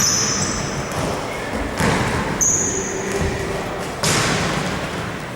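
A basketball bouncing on a gym floor a few times, mixed with short high-pitched sneaker squeaks on the court.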